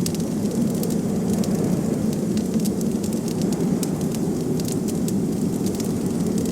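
Wood fire crackling with frequent small, sharp pops and snaps, irregularly spaced, over a steady low rumble of blizzard wind.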